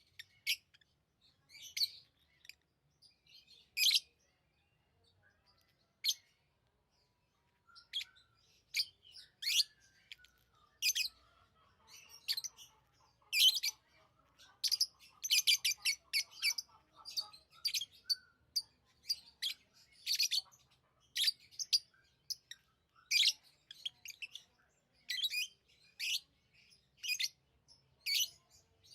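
Pet lovebirds giving short, sharp, high chirps. The chirps come only now and then at first, then follow thick and fast from about eight seconds in, with a softer, lower chatter underneath for several seconds in the middle.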